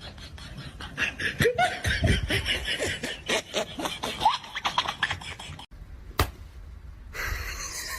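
A person laughing amid a quick run of clicks and knocks; the sound cuts off abruptly about two-thirds of the way in, leaving a single sharp knock.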